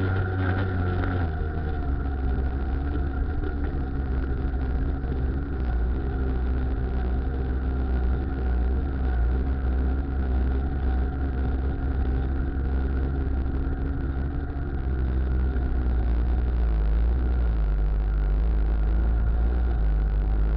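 Muravey motor tricycle's single-cylinder two-stroke engine running under way, its pitch rising in the first second, holding steady, then dropping a little about three-quarters of the way through.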